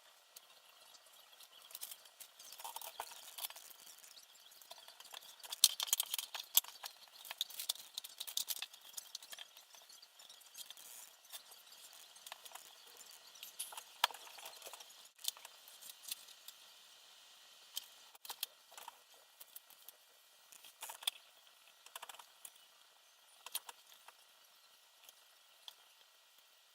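Irregular small clicks, taps and rustles of small parts and tools being handled during assembly of a multirotor frame. The handling is busiest around six to nine seconds in, then settles to scattered single clicks.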